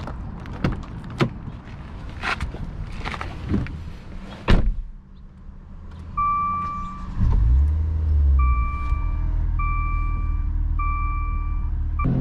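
Car door handle clicks and knocks as the driver gets in, with a heavy door slam about four and a half seconds in. Then a dashboard chime beeps about once a second, and the 2017 Maserati Ghibli's 3.0-litre twin-turbo V6 cranks and starts about seven seconds in, flares up briefly and settles to a steady idle.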